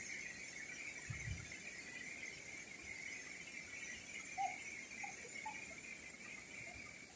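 Faint, steady high-pitched drone of insects, with a few short faint chirps a little past the middle.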